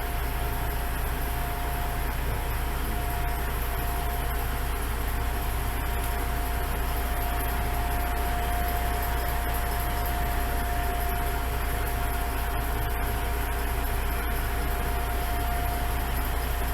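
A diesel railcar's engine idling steadily, a constant low sound with a single steady tone held over it.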